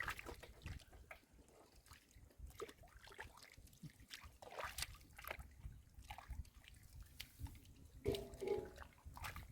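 Faint wet drips, splats and small sloshes of mud and water being handled by hand, scattered and irregular. A brief pitched sound, like a short voice, comes about eight seconds in.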